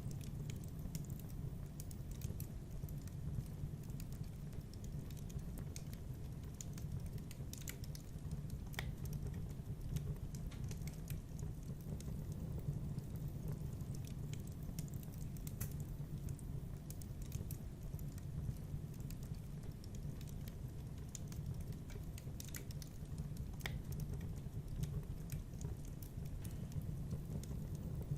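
Wood fire burning in a fireplace, crackling with scattered, irregular pops and snaps over a steady low rumble of the flames.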